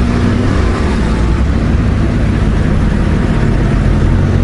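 Honda Gold Wing's flat-six engine idling steadily, a low even hum with a constant hiss over it.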